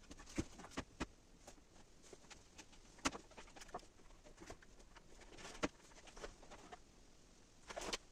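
Scattered light knocks and clicks at irregular intervals, the sharpest about three seconds in and again past the middle, with a short cluster of taps near the end.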